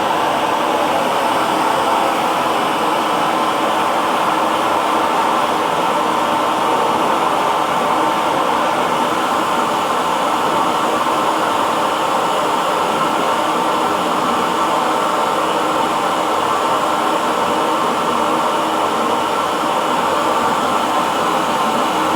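Hair dryer blowing steadily, a continuous even whoosh of fan and airflow with a faint motor hum in it.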